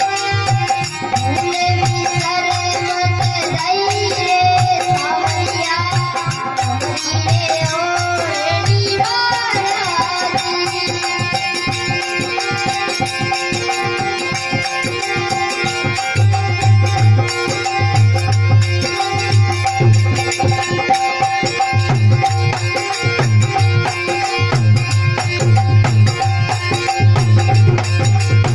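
Desi bhajan (Indian devotional folk song) music: a steady drone under a wavering melodic line in the first ten seconds or so, over a regular drum beat with rattling, jingling percussion.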